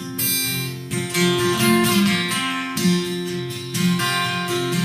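Acoustic guitar strummed in a country song's instrumental break, chords struck roughly once a second and left ringing.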